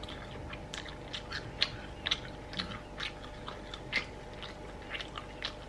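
A person chewing a mouthful of chicken drumstick meat, with irregular small mouth clicks, about two or three a second.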